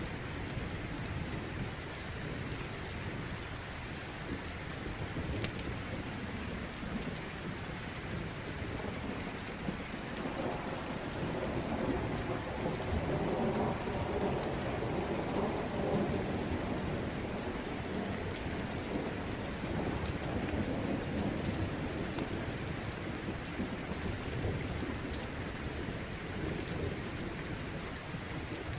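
Steady rain, with a long low roll of thunder swelling up about a third of the way in and fading over several seconds.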